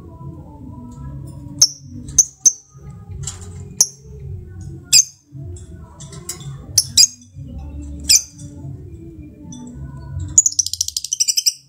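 Lovebirds giving sharp, high chirps, one every second or so. Near the end comes a rapid run of chattering notes lasting about a second, the lovebird's 'ngekek' chatter.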